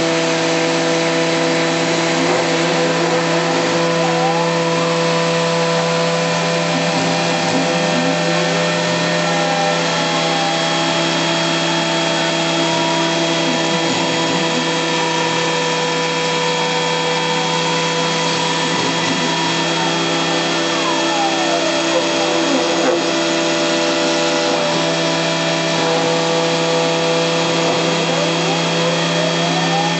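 Sysel CNC router's spindle running steadily at about 15,000 rpm, cutting plexiglass with a 6 mm carbide cutter. Under it are shorter whining tones that slide up and down in pitch as the axes move.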